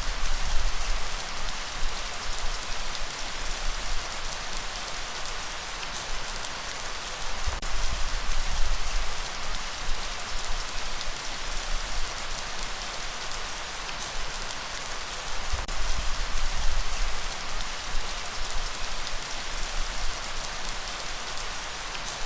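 Steady rain falling: an even hiss of many drops with small taps of individual drops, and a low rumble that swells now and then.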